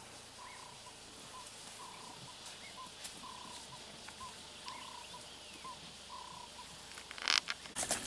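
A small animal calling over and over at one steady pitch, longer and shorter notes alternating about twice a second. Two loud scraping or rustling noises break in near the end.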